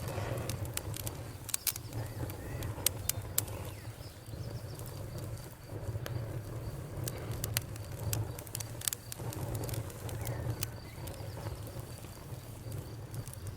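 Campfire crackling, with irregular sharp pops and snaps over a steady low rumble of burning wood, and a faint steady high insect trill.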